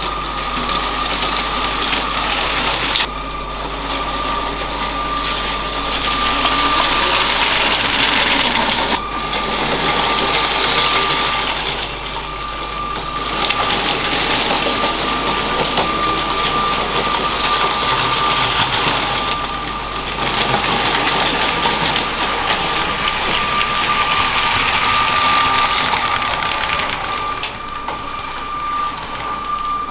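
LEGO train running on plastic track: a steady high electric-motor whine under the rattle of wheels on the rails, which grows louder and fades several times as the train comes near and moves away.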